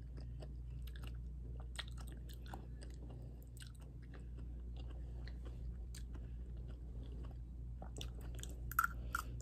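A person chewing a mouthful of rice and soft cooked vegetables close to the microphone, with many small wet mouth clicks and smacks.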